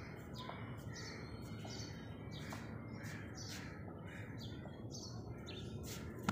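Small birds chirping over and over: short high calls several to the second, over a steady low background rumble.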